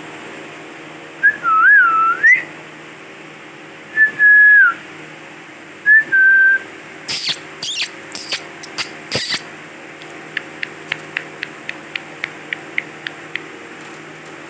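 Ringneck parakeet calling: three short whistled phrases that glide up and down, then a few harsh squawks, then a fast run of short sharp calls at about five a second.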